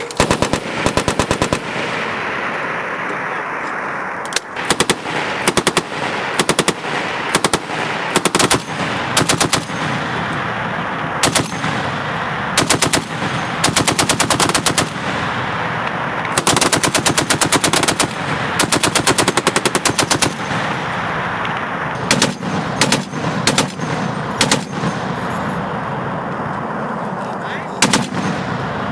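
Machine guns firing repeated bursts, some of a few rounds and some long strings of rapid shots lasting over a second, with a steady rushing noise between bursts.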